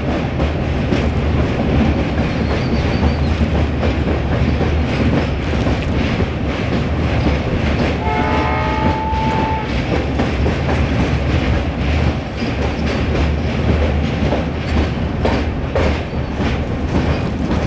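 Indian Railways LHB passenger coaches running at speed: a steady rumble with rapid clicking and rattling of the wheels on the rails. About eight seconds in, the locomotive's horn at the head of the train sounds once, for about a second and a half.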